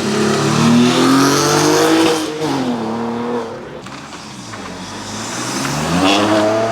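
A car engine revving hard as it accelerates away. The revs climb sharply at the start, hold, then drop off after about three seconds, and a second loud climb in revs comes near the end.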